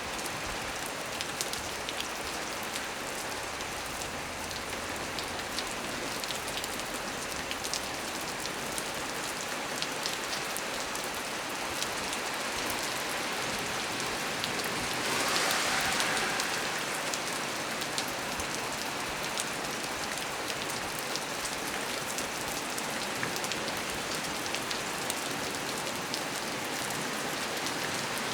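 Heavy rain falling steadily on a small tree's leaves, a dense hiss with many individual drops pattering. It swells briefly louder about halfway through.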